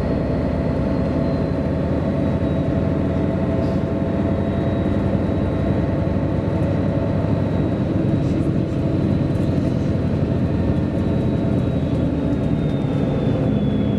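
MAN A23 NG313 articulated city bus running steadily, its diesel engine and drivetrain a constant low drone, with a thin high whine that slowly falls in pitch and drops more quickly near the end.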